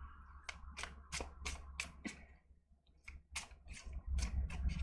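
Tarot cards being handled: a run of crisp card clicks and snaps, about three a second, with a short pause a little past halfway.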